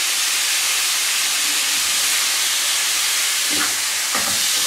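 Chicken pieces sizzling steadily in a hot non-stick frying pan on high heat as they brown. A spatula scrapes and knocks in the pan about three and a half and four seconds in.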